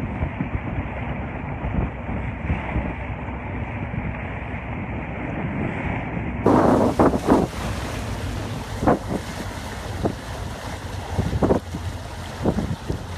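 A rescue boat's engine running under wind buffeting the microphone, with water noise. From about halfway there are several short, loud gusts on the microphone.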